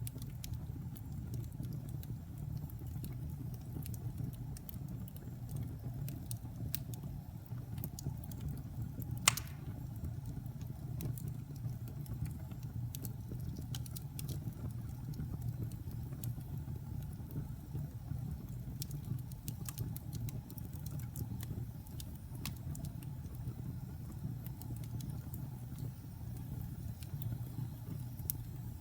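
Wood fire burning in a fireplace: a steady low sound of the flames with scattered small crackles and pops, and one sharper pop about nine seconds in.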